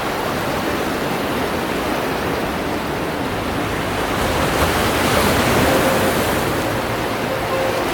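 Sea waves washing onto the shore: a steady rush that swells louder about halfway through.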